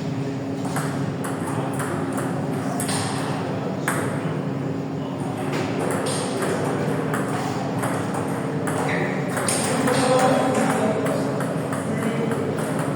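Table tennis balls being played, clicking off bats and the table in many quick, irregular clicks, over a steady low hum and background voices.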